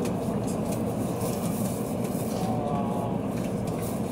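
Steady running rumble of a Tokaido Shinkansen train, heard from inside the passenger cabin.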